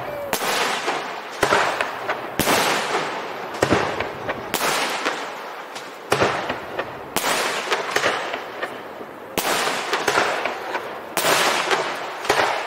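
Fireworks display: aerial shells bursting overhead, about a dozen sharp bangs roughly one a second, each trailing off over most of a second before the next.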